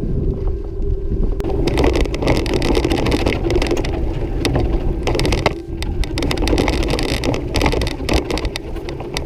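Mountain bike riding over rough, rocky trail: tyres crunching and the loaded bike rattling in a dense stream of clicks, starting about a second and a half in, over a low rumble.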